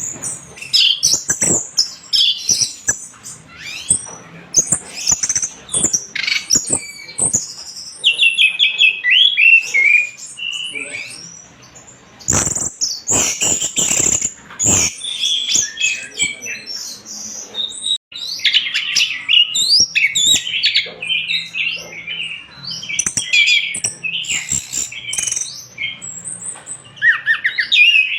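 Orange-headed thrush singing a fast, varied song of chirps and whistled phrases, with brief pauses. Near the middle comes a run of sharp clicks.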